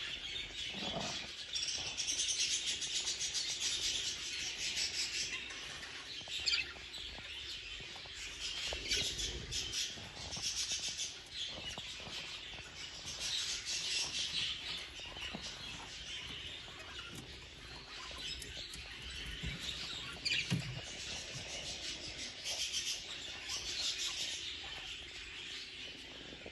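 Budgerigars chattering and warbling: a continuous high twittering that swells and fades.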